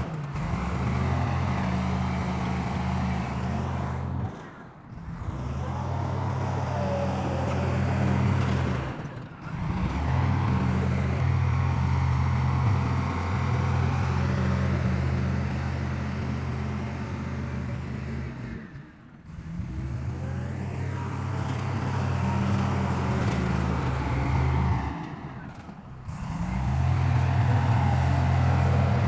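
Heavy diesel engine of earthmoving machinery running steadily with a low hum. The sound briefly drops away four times and comes straight back.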